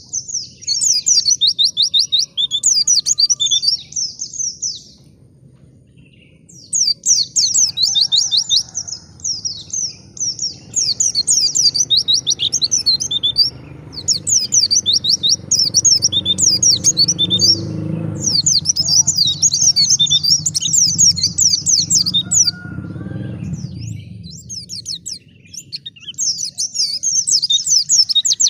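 White-eye (pleci) singing long, fast, chattering phrases of rapid high notes, with a couple of short pauses.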